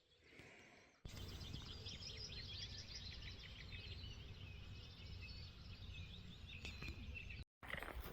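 Birds chirping and singing in many quick high notes over a steady low rumble of outdoor ambience. The sound starts abruptly about a second in and cuts off suddenly near the end.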